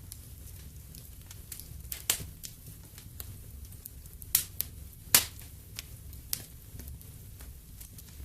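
Wood fire in a fireplace crackling: scattered faint ticks with a few sharp, loud pops, the loudest about two and five seconds in, over a low steady rumble.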